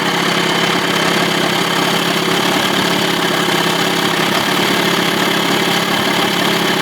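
2000 Johnson 25 hp two-cylinder two-stroke outboard idling steadily while its low-speed mixture screw is turned in toward lean, to find the point where it starts to sneeze.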